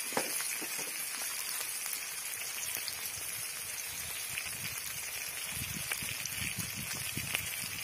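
Onion-tomato masala with fresh ginger paste frying in oil in an aluminium kadai: a steady sizzling hiss with scattered small crackles.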